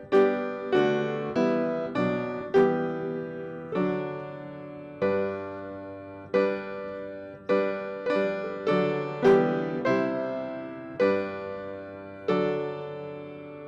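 Piano offertory music: slow chords struck one after another, each ringing and fading before the next.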